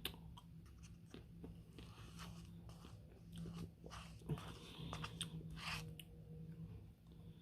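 Close-up eating sounds from a man working through a partly frozen Smarties Blizzard: chewing and soft crunching of the frozen ice cream and candy pieces, with scattered small clicks, the loudest about four seconds in.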